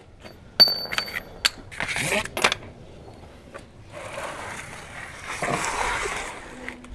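Metal-on-metal clinks, the first ringing briefly, then scraping and a longer stretch of shuffling: tools and parts being handled.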